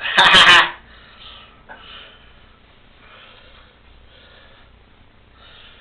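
A short burst of a person's voice, about half a second long at the start, then a few seconds of faint, patchy sound.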